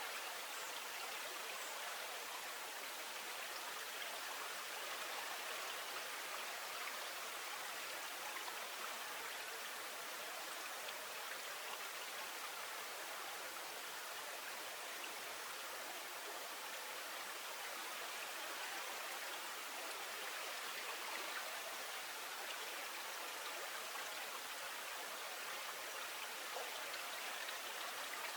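Flowing stream water: a steady, even rush with no change in level.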